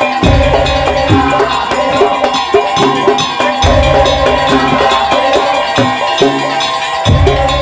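Madurese daul (tong-tong) music: a percussion ensemble playing a dense, driving rhythm of quick clanking, cowbell-like strikes over a steady high melody line, with a deep drum hit about every three and a half seconds.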